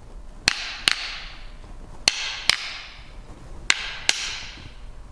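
Two sticks tapped together in a woodpecker pecking rhythm: three pairs of sharp knocks, tap-tap, tap-tap, tap-tap, each with a short ring.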